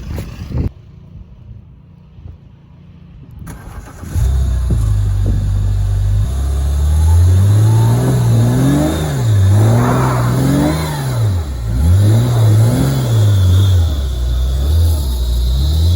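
BMW E46 engine revving hard, its pitch rising and falling over and over as the car works to climb out of deep snow on traction tracks. It comes in loud about four seconds in.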